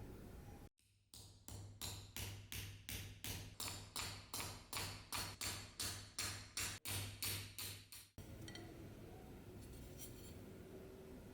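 A hand tool worked in quick, regular strokes, about three a second, for some seven seconds, then stopping abruptly.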